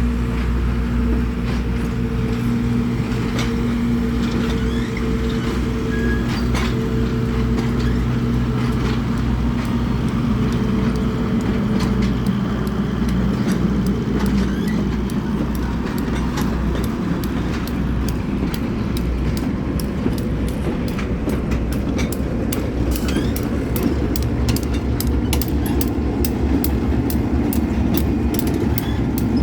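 Train passing: a steady low engine hum and rumble. From around two-thirds of the way through, a run of regular sharp clicks comes in, a couple a second.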